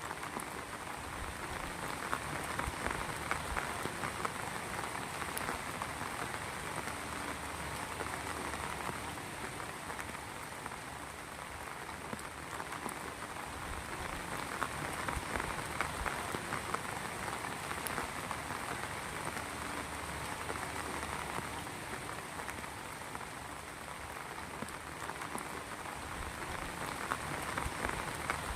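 Heavy rain falling steadily on surfaces, a dense patter of drops that swells a little louder and eases at times.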